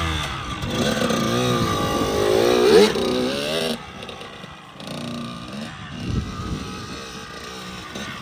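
Dirt bike engine revving up and down as it is ridden at a snow jump, loud for about four seconds, then dropping away sharply, with a few quieter blips of throttle after.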